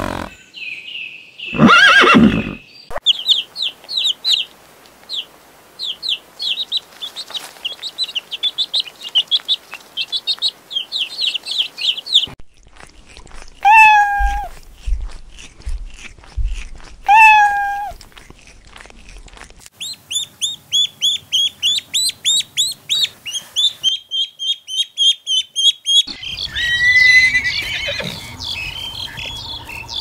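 A sequence of animal calls. A horse whinnies at the start and again about two seconds in. Rapid high bird chirping runs for several seconds, broken by two drawn-out falling cat meows about three seconds apart, and then more quick chirp series follow.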